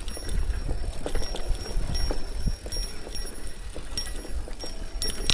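Mountain bike rolling over a rough dirt trail, with an irregular clatter of knocks and rattles as it runs over bumps and rocks. Wind on the microphone adds a low rumble.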